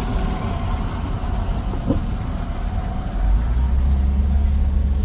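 Motor vehicle engine running with a low rumble, which grows louder about three seconds in.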